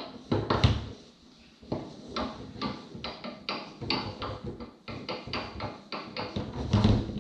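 Tornado foosball table in play: the ball clacking against the plastic men and the table walls in a rapid, uneven run of sharp knocks. The heaviest knocks come about half a second in and again near the end.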